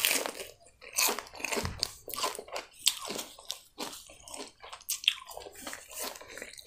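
A bite into a breaded chicken nugget, loudest at the start, then chewing with a string of irregular crunches, about two a second.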